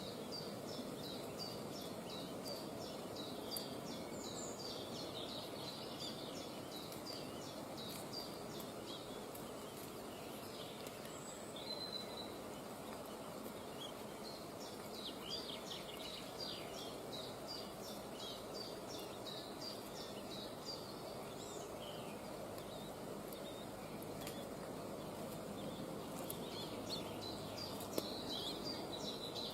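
Bouts of short, rapidly repeated high bird chirps over a steady outdoor background noise; the chirps come in runs near the start, in the middle and near the end.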